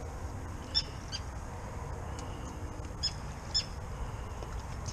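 Water birds calling: four short, high calls in two quick pairs, one pair about a second in and one about three seconds in, over a steady low rumble.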